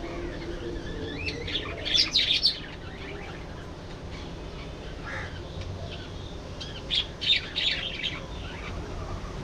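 Budgerigars chirping in two loud bursts of rapid, quickly changing calls, about two seconds in and again about seven seconds in, with fainter chirps between over a steady low background noise.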